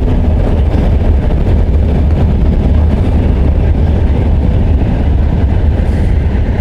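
Wind rushing over the microphone of a moving motorcycle, a loud steady low rumble mixed with road and engine noise.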